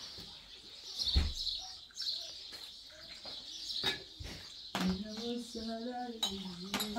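Small birds chirping and twittering, with a few sharp clicks or knocks. About five seconds in, a person's voice begins, low and drawn out.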